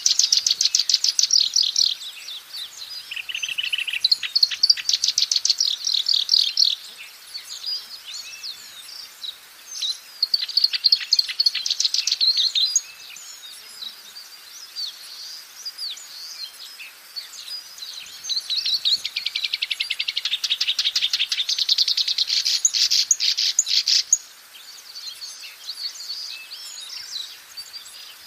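Black-browed reed warbler singing: several bursts of rapid, repeated trilled notes, each a few seconds long, with quieter chatter between them.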